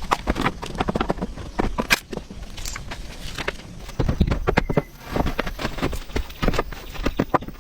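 A quick, irregular run of sharp knocks and clicks, denser about four seconds in.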